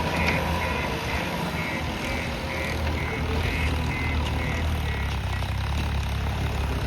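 JCB backhoe loader's diesel engine running steadily under work, with a reversing alarm beeping about twice a second that fades out after about four seconds.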